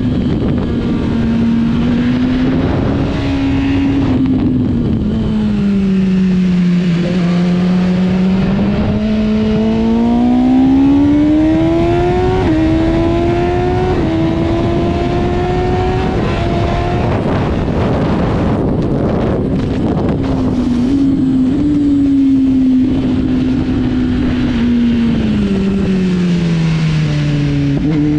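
Sport motorcycle engine being ridden hard on a race track, its pitch climbing under acceleration and dropping off, with small steps at the gear changes, several times over. Steady wind rush sits under it throughout.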